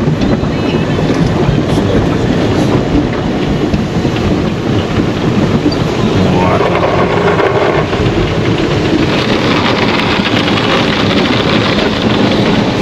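Automatic tunnel car wash heard from inside the car: rotating side brushes scrubbing the body and water spraying against the panels, a loud continuous churning noise. About nine seconds in the hiss turns brighter and louder.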